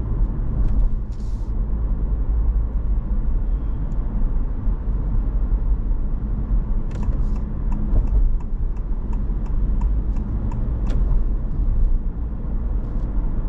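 Steady road and tyre rumble inside a Honda ZR-V's cabin while driving. Past the middle, a run of quick, even ticks, about three a second, goes on for some four seconds.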